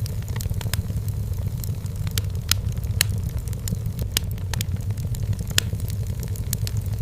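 Wood fire burning in a fireplace: irregular sharp crackles and pops over a steady low rumble of the flames, with a few louder pops about two and a half, three and five and a half seconds in.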